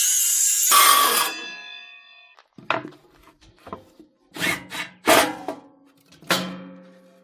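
A power tool cutting or grinding steel stops about a second in, and the metal rings on as it winds down. Then come five separate clanks of steel parts being knocked and set down, each ringing briefly.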